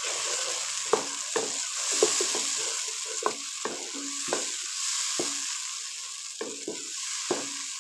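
Tomato paste sizzling in hot ghee in a karahi, stirred with a wooden spatula that scrapes and knocks against the pan at irregular moments over a steady high hiss of frying.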